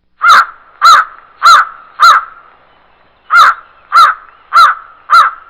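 Raven calling: eight harsh caws in two runs of four, each caw rising and falling in pitch, about one every 0.6 seconds, with a short pause between the runs.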